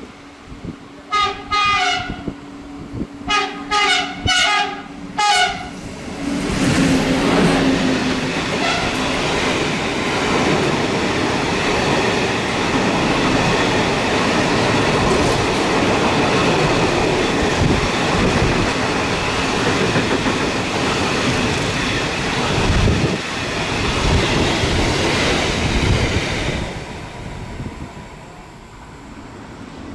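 Freight locomotive sounding several short horn blasts in the first five seconds, then a long freight train of flat container wagons running past close by for about twenty seconds, its wheels rumbling and knocking on the rails, the noise dropping away a few seconds before the end.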